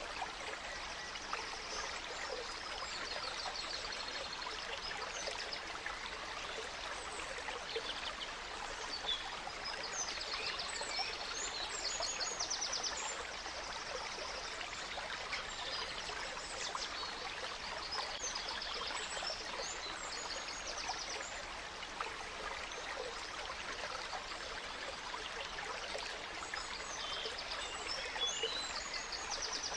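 A gentle stream flowing steadily, with forest birds singing high, rapid trills and chirps over it in several short bouts.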